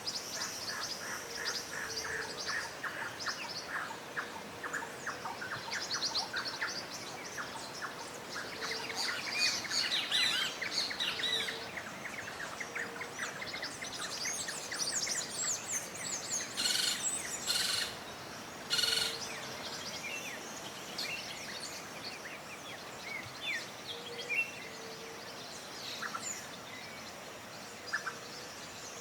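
Several songbirds chirping and trilling in rapid runs of short notes, with quick falling whistles and, about two-thirds of the way in, three short harsh raspy calls; soft low notes repeat now and then underneath.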